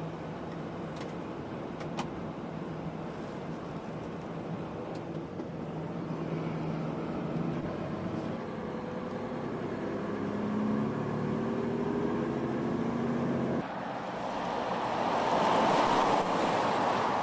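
Heavy truck driving on the road, its engine note slowly rising as it gathers speed. About fourteen seconds in the sound changes abruptly to a louder rush of road and wind noise that swells.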